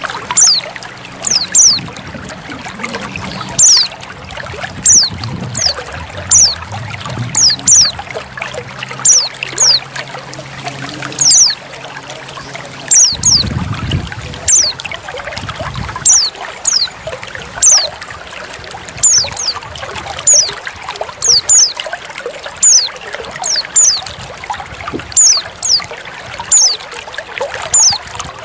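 Steady trickling water with a white-eye (pleci) repeatedly giving short, high, falling call notes, often in pairs, about one every second. These are female white-eye calls used as a lure to draw male birds.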